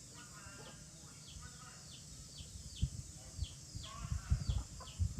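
Young chickens peeping: a steady run of short, high peeps that slide down in pitch, about two or three a second, with lower chirrups among them. Low thumps join from about three seconds in.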